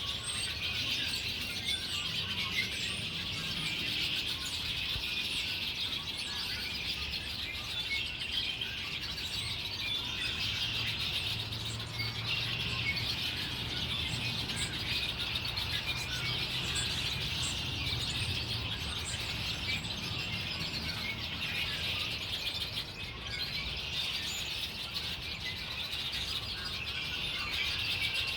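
Many small birds chirping and tweeting at once, a dense, continuous chorus of overlapping chirps.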